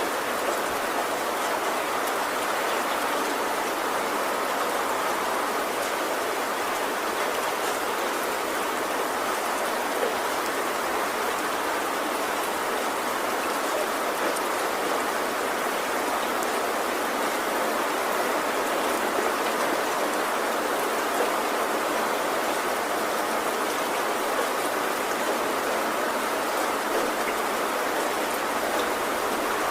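Heavy rain falling steadily on a tin roof, an even hiss of drops with no thunder.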